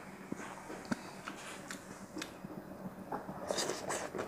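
Close-up mouth sounds of a person chewing food, with a few small sharp clicks scattered through, the chewing getting busier near the end.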